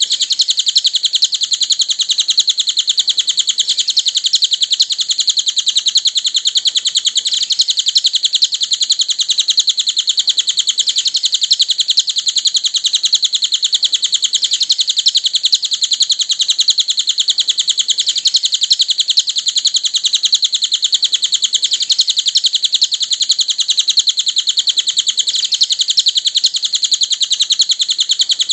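Cililin bird singing a continuous, very rapid, high-pitched chattering trill that runs on without a break, as used for masteran song training.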